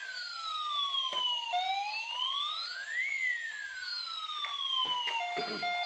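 Battery-powered toy police car's electronic siren wailing, its pitch slowly rising and falling. Near the end it switches to a beeping pattern of steady tones.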